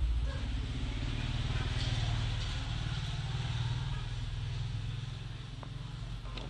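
Toyota Yaris car engine running, growing louder over the first two seconds or so and then slowly easing off.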